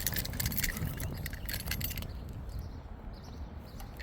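Small metallic clinks and rattles as a digital tyre pressure gauge is handled and pressed onto a motorcycle tyre's valve, dense for about two seconds and then stopping.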